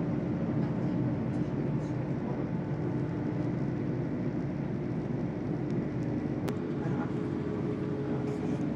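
Steady low rumble and hum of a train running, heard from inside the passenger coach, with a faint click about six and a half seconds in.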